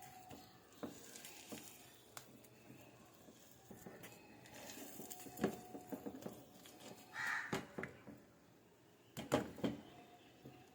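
Faint, scattered clicks and knocks of kitchen utensils and dishes being handled, with a short louder rustle about two-thirds of the way through and a quick cluster of knocks near the end.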